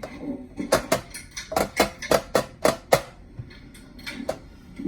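A ceiling fan's metal pull chain clinking against the fan housing after being pulled to change speed: a quick run of about a dozen sharp clinks with a short ring, starting about a second in, then a few fainter taps as it settles.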